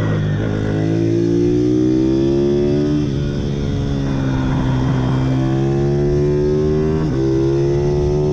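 Pit bike engine running hard, its pitch climbing slowly and then dropping sharply, once about three seconds in and again about seven seconds in.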